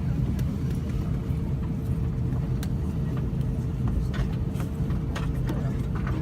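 Steady low rumble inside an Airbus A320 passenger cabin on the ground, with a faint steady hum and a few small clicks.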